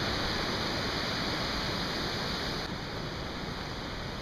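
Loud, steady rush of a waterfall, an even noise with no break, its hiss easing slightly about two-thirds of the way through.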